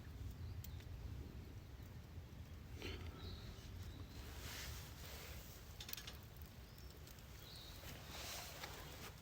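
Faint outdoor ambience: a steady low rumble, two soft rustling swells, and a few short faint bird chirps.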